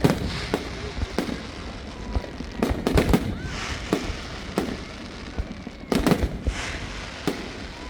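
Fireworks going off: a string of sharp bangs, some in quick pairs, with crackling between them.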